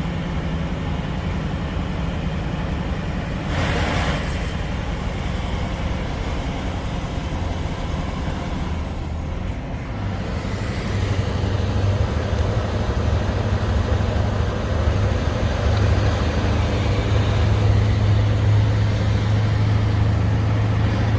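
Scania R560's V8 diesel engine pulling a heavily loaded truck up a long climb, a steady low drone. A short hiss sounds about four seconds in; the engine note dips briefly near the middle, then comes back louder and steadier.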